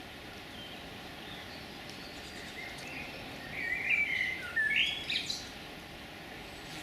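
A small songbird's short, warbling run of calls starting about three and a half seconds in and lasting about two seconds, over a steady background hiss.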